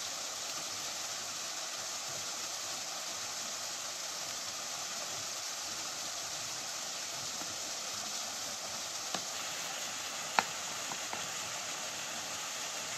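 Steady rush of a waterfall pouring over rocks, with a faint click about nine seconds in and a sharp, louder click a second later.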